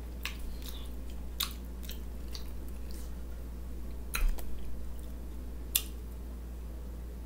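Close-up mouth sounds of a person chewing a forkful of rice and smothered liver: scattered wet smacks and sharp clicks over a steady low hum, with a louder knock and rustle about four seconds in.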